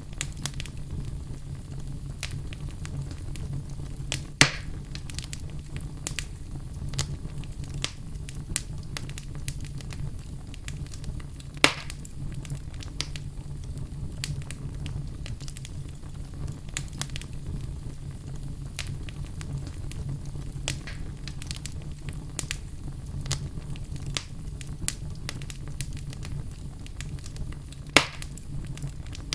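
Wood fire burning in a fireplace: a steady low rumble of flames with frequent small crackles and three sharp, loud pops from the logs, about four seconds in, about twelve seconds in, and near the end.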